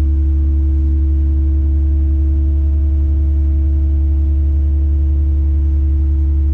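Tadano ATF 180G-5 crane's diesel engine running steadily under hydraulic load inside the operator's cab while the boom is raised and the superstructure swings, a deep even drone with a held steady tone over it.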